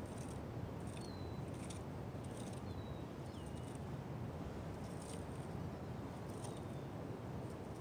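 A few faint, short bird chirps, some sliding down in pitch, over a steady low outdoor background, with scattered faint scratchy ticks.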